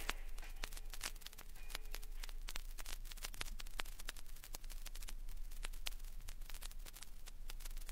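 Vinyl record surface noise in the run-out between tracks: irregular crackles and pops over a low steady hum.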